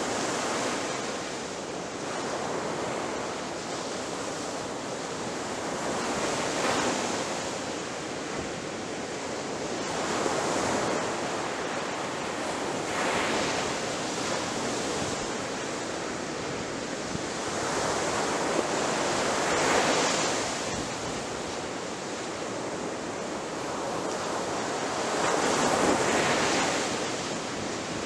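Ocean waves breaking on a shore: a continuous rush of surf that swells as each wave crashes, about every three to six seconds.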